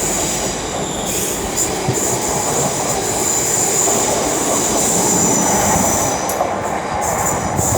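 Class 350 Desiro electric multiple unit rolling through the station at low speed, with a steady high-pitched wheel squeal over the rumble of its running gear.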